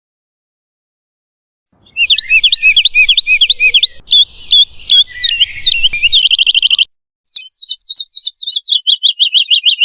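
Woodlark singing. After nearly two seconds of silence comes a phrase of repeated high, swooping notes that ends in a fast trill; after a short pause a second phrase of quick repeated notes follows.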